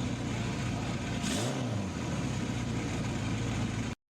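The custom motorcycle's 1,000 cc engine (bored out from 974 cc) running, with one quick throttle blip about a second and a half in that rises and falls in pitch. The sound cuts off suddenly near the end.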